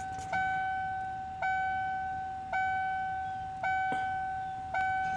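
Dashboard warning chime in a 1997 Ford 7.3 Power Stroke truck's cab, ringing five times about once a second with the key on before the cold diesel is cranked. A single click sounds about four seconds in.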